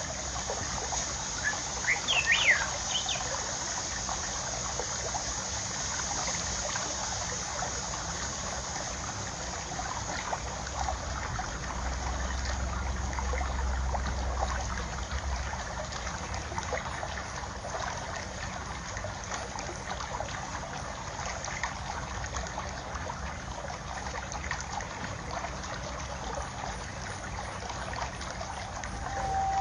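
Water trickling steadily, with a few short bird chirps about two seconds in and again at the very end. A low rumble of wind comes through for a few seconds in the middle.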